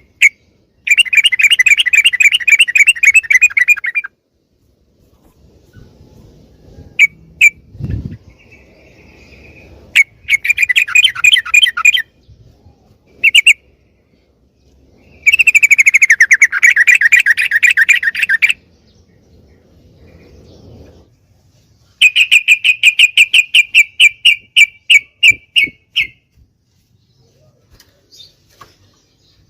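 Yellow-vented bulbul (trucukan) singing: four phrases of fast, evenly repeated chattering notes, each a few seconds long, with short single calls in the gaps. A brief low thump comes about a third of the way in.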